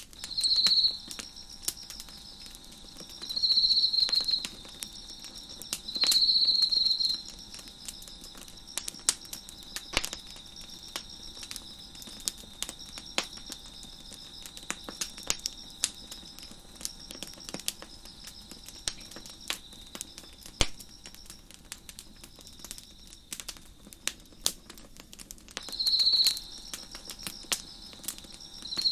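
Wood fire crackling with frequent sharp pops and snaps. A nearby cricket chirps in loud trills about a second long, three times in the first seven seconds and again near the end, over a fainter cricket trilling steadily.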